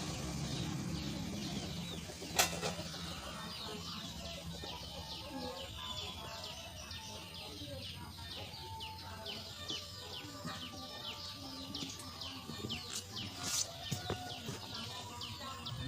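Myna chicks begging: a rapid run of short, high, downward chirps, a few each second, building up a few seconds in. A sharp click about two seconds in, and a few more near the end.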